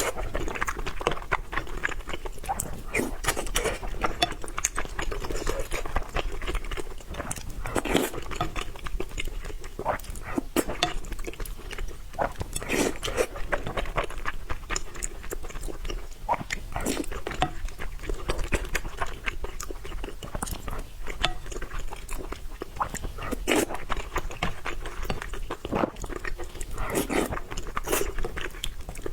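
Close-miked eating: continuous chewing with many quick, irregular wet mouth clicks and smacks.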